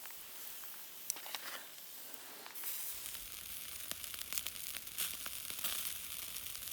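Chicken wings sizzling and crackling on a grill over a campfire, growing louder about two and a half seconds in.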